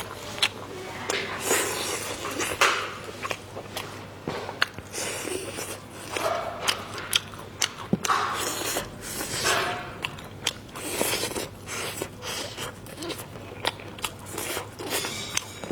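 Close-miked mukbang eating: chewing and biting food, with many short wet mouth clicks and smacks.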